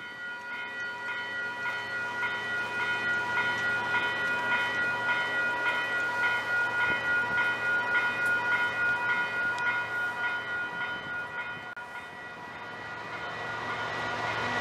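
A bell ringing steadily at about two strokes a second as a Canadian Pacific diesel-hauled double-stack container freight train approaches. Near the end the bell fades and the locomotive's engine and the rumble of the train grow louder.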